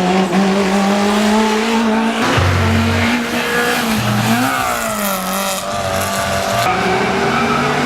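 Racing engine running at high, steady revs, its pitch rising and then dropping back about four and a half seconds in.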